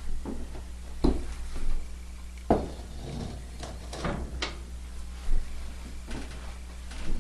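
Irregular knocks and clunks of wood or fireplace tools being handled at the fireplace, about six over several seconds, the loudest a little past halfway, over a low steady hum.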